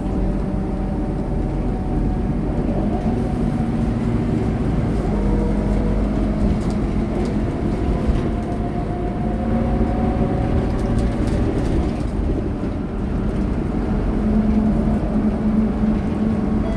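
Scania K230UB bus engine and drivetrain running while the bus is under way, heard from inside the cabin. The engine note climbs several times as the bus pulls away and changes gear.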